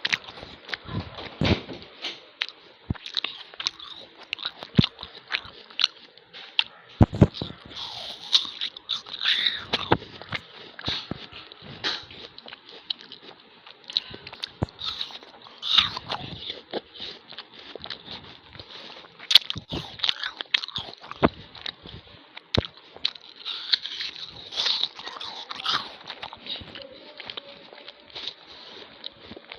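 A crisp apple being bitten and chewed close up, with irregular wet crunches throughout.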